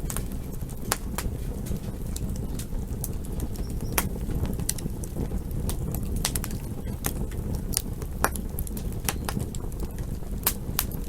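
Campfire crackling: irregular sharp pops and snaps, several a second at times, over a steady low rumble of the burning fire.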